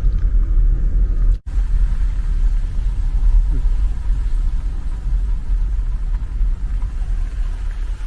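A car's steady low road and engine rumble heard from inside while driving, cut off for an instant about a second and a half in.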